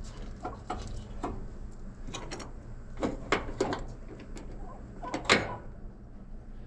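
Scattered light clinks and knocks of metal parts being handled: exhaust manifold bolts and cut gaskets being fitted by hand, with a sharper knock about five seconds in, over a steady low hum.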